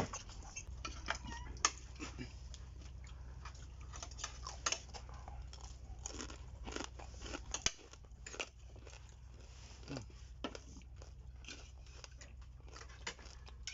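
A person chewing crispy fried frog close to the microphone, with irregular crunches and wet smacking clicks.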